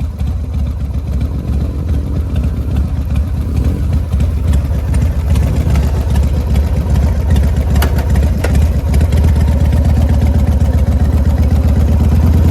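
Motorcycle engine running on a test ride, its low pulsing exhaust note steady and growing louder over the first several seconds before holding.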